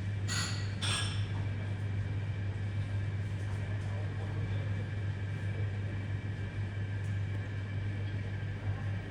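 Steady low mechanical hum of airport terminal background noise, with two brief clinks about half a second apart near the start.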